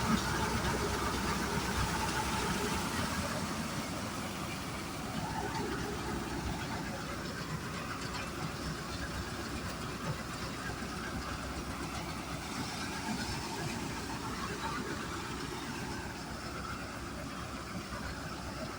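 HMT 5911 tractor's diesel engine running steadily.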